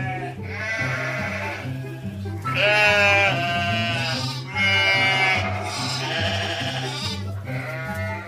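Sheep bleating over and over, about six wavering bleats with the loudest about three seconds in, over background music with a steady bass line.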